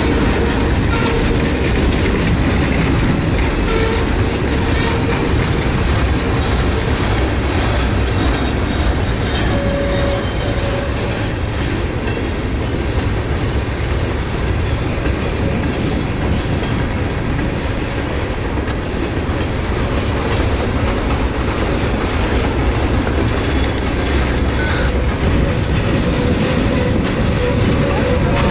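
Freight cars rolling steadily past, their wheels clacking over the rail joints with a continuous low rumble, and a few brief faint wheel squeals now and then.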